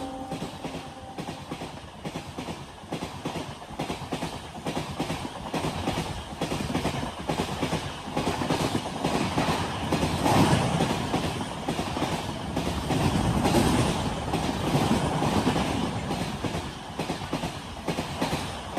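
Express train passing at speed, its wheels clattering in a rapid, even clickety-clack over the rail joints. The sound swells and eases as the coaches go by.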